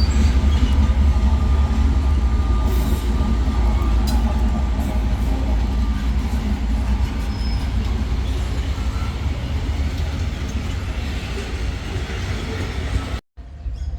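Loaded freight train rolling past: a steady heavy rumble of wagons on the rails, with a faint thin wheel squeal over the first few seconds. The sound drops out abruptly near the end and comes back thinner.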